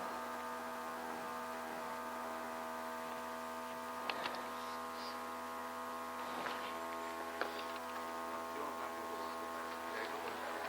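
Steady electrical hum made of several even tones, with a few faint clicks about four, six and a half and seven and a half seconds in.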